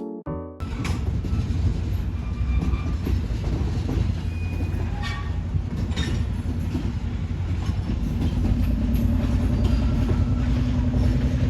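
A train rolling past with a steady low rumble and wheels clicking over the rail joints; the rumble grows a little louder near the end.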